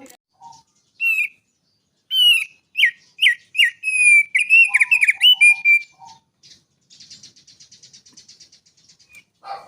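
A songbird singing a run of loud, slurred whistled notes, some falling and some looping, then a fast, dry, buzzy trill.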